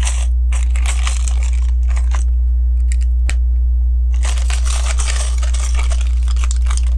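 LEGO pieces being handled and sorted by hand: two stretches of rustling and crinkling of plastic parts, with a few sharp plastic clicks between them. A steady low electrical hum runs underneath.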